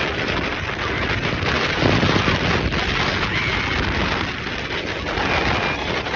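Steady rushing wind buffeting the microphone on a moving boat, with the low rumble of the boat underneath.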